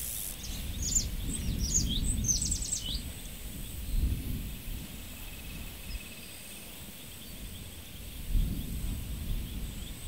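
Countryside ambience beside a small stream: a bird gives a quick run of short, high, falling chirps in the first few seconds, over a faint steady high insect buzz and a low rumble that swells and fades.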